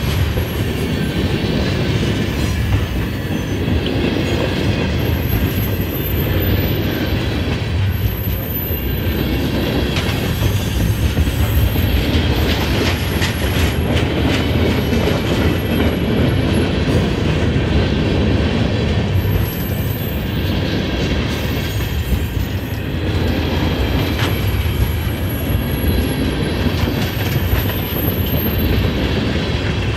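Freight train of tank cars and covered hoppers rolling past: a steady rumble of steel wheels on rail with clacking over the rail joints. Thin high-pitched wheel squeals come and go every few seconds.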